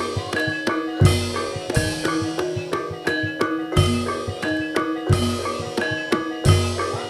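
Gamelan-style accompaniment for an ebeg horse dance: keyed mallet percussion playing a repeating melody of ringing notes over deep drum strokes every second or two.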